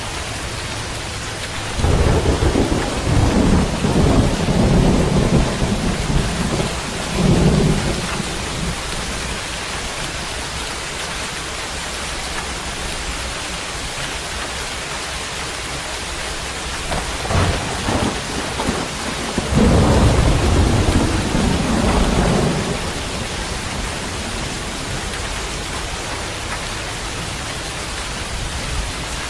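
Rain falling steadily, with two long rolls of thunder: one rumbling from about two seconds in for some six seconds, the other building near the middle and rolling on for about six seconds.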